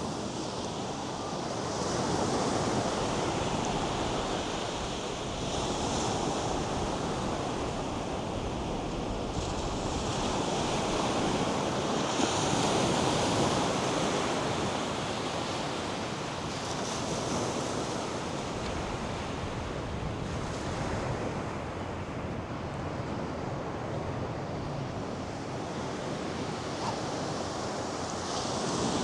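North Sea surf breaking and washing up a sandy beach: a continuous rushing wash that swells and eases every few seconds.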